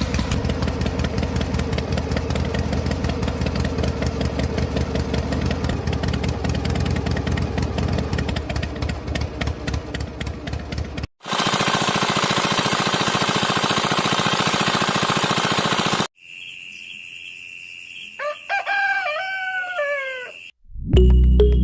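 Miniature model diesel engine running with fast, even firing pulses that slow and thin out about ten seconds in, then stop at a cut. A loud steady hiss follows for about five seconds, then a quieter stretch in which a rooster crows near the end.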